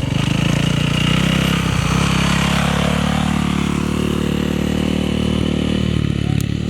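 Off-road racing motorcycle engine running loud and close at a fairly steady pitch.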